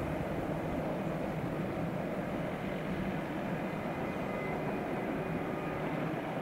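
JR Freight EF210 electric locomotive hauling a container freight train past, a steady running noise of wheels on the rails.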